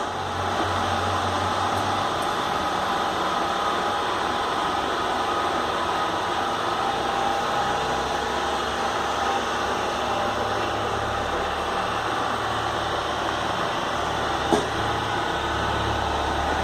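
Motor-driven blast-furnace discharge gate running in reverse: a steady mechanical drone with a low hum, switched on with a sharp click at the start. Another single click comes near the end.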